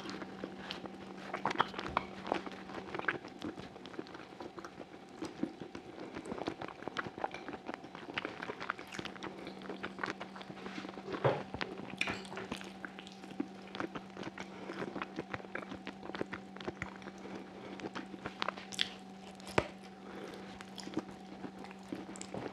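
Close-miked mouth sounds of biting and chewing sheep's trotter meat off the bone: a continuous stream of wet clicks and smacks, with a few louder snaps. A faint steady hum runs underneath.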